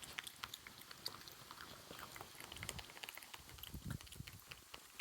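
Raccoon chewing peanuts, a faint run of small irregular crunches and clicks.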